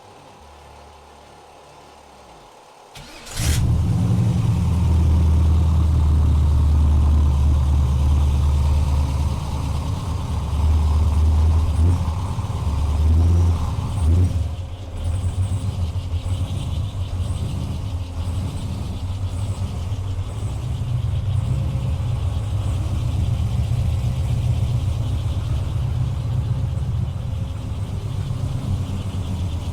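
LS-swap 7.0-litre (427 ci) V8 with individual throttle bodies running, coming in suddenly about three seconds in, swelling a few times with light revs and then settling to a steady idle. It is being warmed up so the thermostat opens and coolant circulates after a refill.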